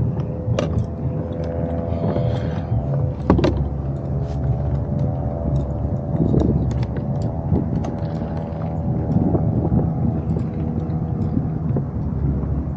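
A steady engine drone with a low rumble and a constant hum, and a few sharp clicks and knocks, the loudest about half a second and three seconds in.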